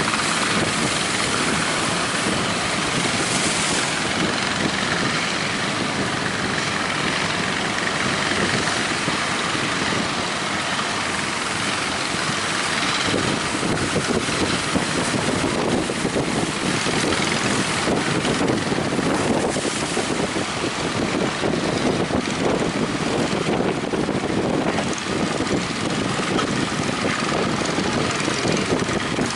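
Strong coastal wind rushing across the microphone over heavy surf, a steady loud roar of noise with no clear tone.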